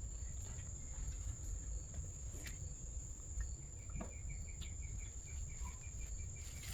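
Insects calling: a steady high-pitched trill, with a second, evenly pulsed chirping joining about three seconds in, over a low rumble and a few faint clicks.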